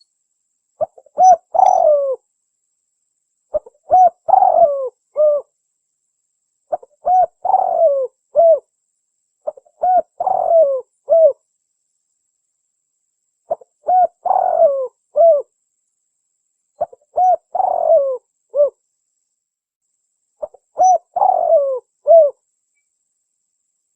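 Spotted dove (tekukur) cooing. The same multi-note phrase repeats about every three seconds, seven times, with complete silence between phrases. This is a looped recording of the call, used as a lure to draw in doves.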